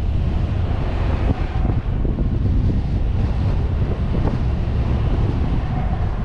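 Car driving: a steady low rumble of engine and tyres with wind buffeting the suction-mounted GoPro's microphone.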